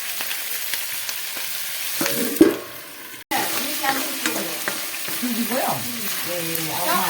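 Meat frying in a pan with a steady sizzle and stirring. There is a sharp clatter about two and a half seconds in and a brief break just after.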